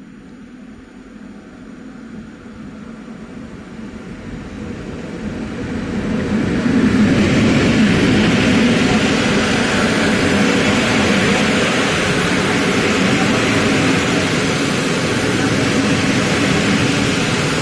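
Passenger train hauled by an EP07 electric locomotive coming in along the platform, growing louder over about the first seven seconds, then the steady noise of its coaches' wheels rolling past on the rails.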